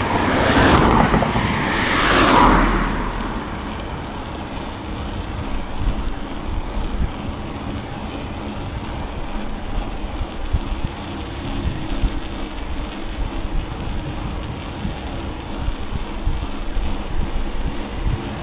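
Wind rushing over the microphone and road noise while cycling along a main road, with traffic passing close by in the first few seconds, swelling loud and fading.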